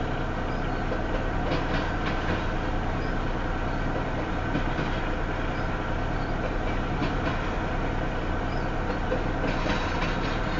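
Intermodal stack-train freight cars rolling slowly past at about 15 mph, a steady rumble of steel wheels on rail with a few faint clicks over the rail joints.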